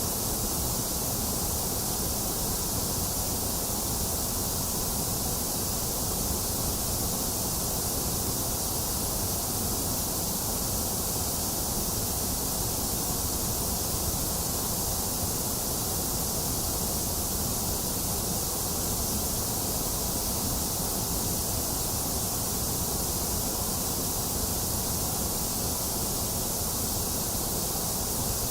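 Box fan running steadily with rain falling: one even, unbroken hiss.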